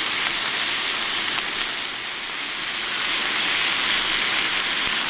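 Pork belly sizzling on a charcoal grill: a steady hiss with a few tiny pops.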